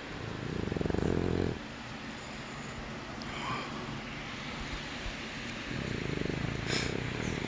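Boston terrier puppy snoring: two long, low, fluttering snores about four seconds apart, over a steady background hiss, with a short click near the end.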